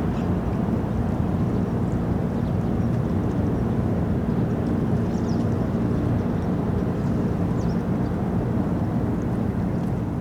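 A steady low rumble with a few faint, short high chirps scattered through it.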